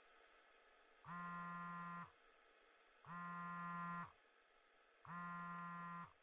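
Faint phone ringing: three buzzy one-second rings, evenly spaced about a second apart, the call going unanswered.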